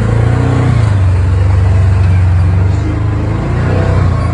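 Polaris 4x4 side-by-side engine running hard under throttle, a loud steady low drone with some rise and fall in pitch as it is driven through a creek crossing.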